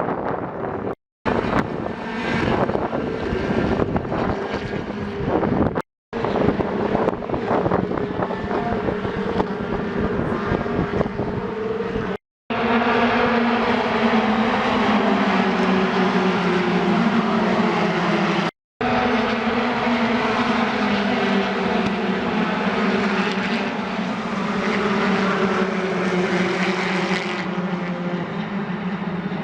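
Aircraft engine drone: a steady low hum whose pitch sinks slowly, heard across several short clips joined by abrupt cuts. Before the second cut the engine is mixed with rougher, noisier sound.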